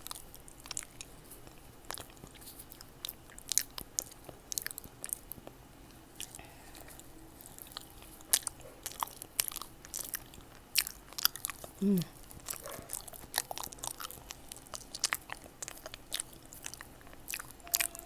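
Close-miked eating of fresh fruit: wet chewing, with many sharp mouth clicks and smacks. A short hummed sound falling in pitch comes about twelve seconds in.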